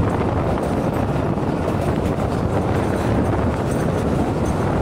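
Moving passenger train heard from an open window: the steady rumble of the carriage running on the rails, mixed with wind rushing over the microphone.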